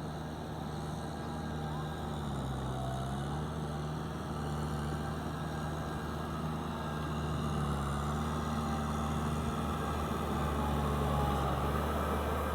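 Tractor diesel engine running steadily while ploughing, its note dipping a couple of times as it takes load and then recovering.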